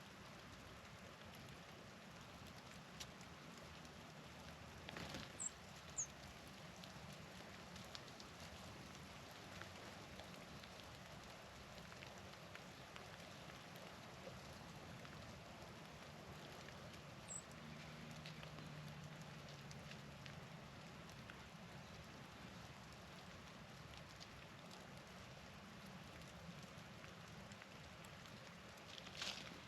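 Faint, steady patter of precipitation falling during a snowstorm. A few very brief, high chips from small birds come about five seconds in and again near the middle, and there is a short louder rustle near the end.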